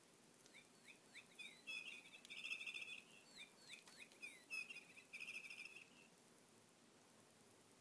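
Faint bird chirping: a few quick sweeping chirps followed by a trill, then the same phrase again.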